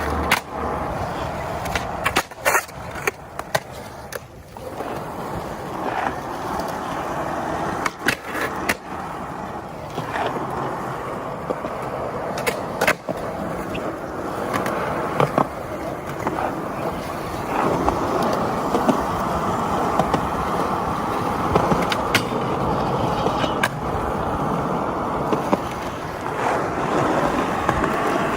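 Skateboard wheels rolling with a steady rumble, broken over and over by sharp clacks of the board hitting the ground: pops, landings and the board slapping down.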